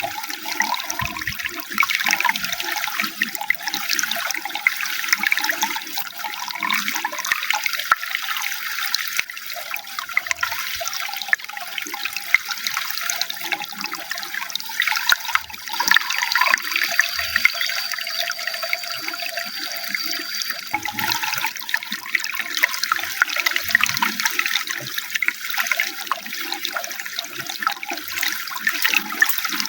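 Running water, splashing and gurgling steadily.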